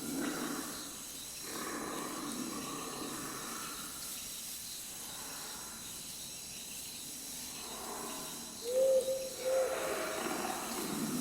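Night-time forest ambience: steady insect trilling, with a breathy noise that swells and fades. About nine seconds in, a short low animal call sounds twice, the loudest thing heard.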